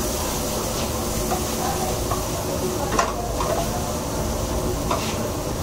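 Porcini mushrooms sizzling on a hot griddle, a steady frying hiss, with a few clicks and scrapes of a utensil on metal or plates, the sharpest about three seconds in.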